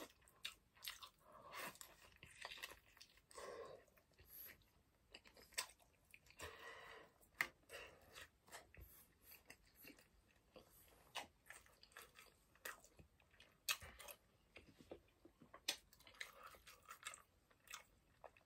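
Faint close-up chewing of a hard, toasted cheese sandwich: scattered crunches and mouth clicks, with a few longer spells of crunching.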